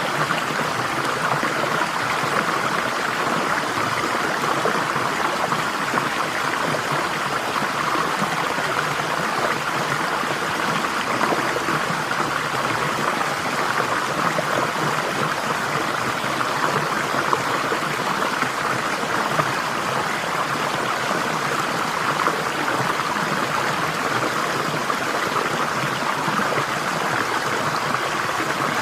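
Flowing stream water, a steady, even rushing and babbling.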